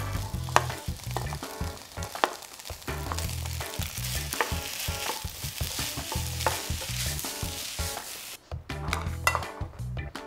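Fried rice with chopped vegetables sizzling in a wok while a wooden spatula stirs and scrapes through it. The sizzling cuts off suddenly about eight seconds in, leaving a few light clicks.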